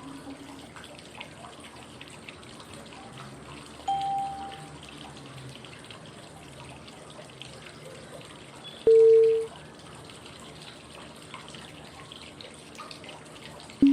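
Steady flowing-water white noise, with a short pitched cue tone every five seconds marking the inhale, hold and exhale of 5-5-5 breathing. A higher tone sounds about four seconds in and a louder, lower one about nine seconds in. A still lower tone begins right at the end.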